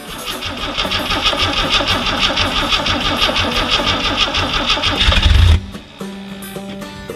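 Starter cranking the 1983 Jeep CJ7's engine on a cold start, a fast, even churning for about five and a half seconds. It ends in a louder burst and then stops suddenly.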